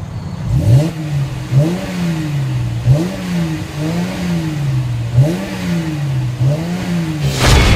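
2014 Mercedes-Benz C350's 3.5-litre V6 being revved in a series of about six throttle blips, each rising quickly in pitch and falling back toward idle. A sudden loud burst comes near the end.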